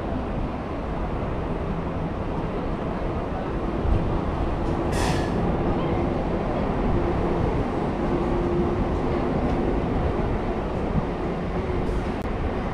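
MEMU electric passenger train running alongside a station platform as it pulls in, a steady rumble of wheels on the rails heard from the open doorway. A short high-pitched squeal about five seconds in.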